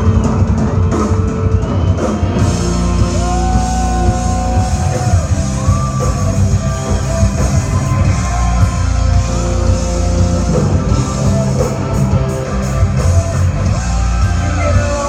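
Loud rock music: a band with electric guitar, bass and a singer, playing steadily.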